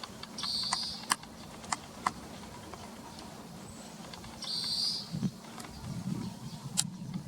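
A bird's short buzzy call, given twice about four seconds apart, with a few sharp ticks in between and some low rumbling noise near the end.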